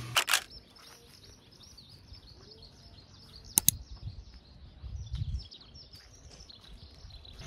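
Small birds chirping many times in quick succession. Two sharp double clicks come at the start and about halfway through, and a low thump comes just after.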